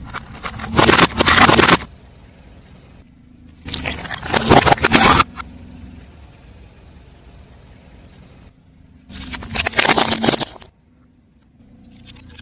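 Car tyre rolling over and crushing crunchy objects: three loud crackling crunches, each lasting about a second and a half, with a low vehicle rumble between them.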